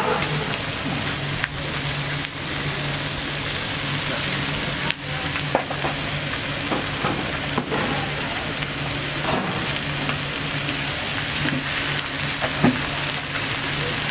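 Food sizzling as it fries: a steady hiss broken by a few sharp clicks, over a steady low hum.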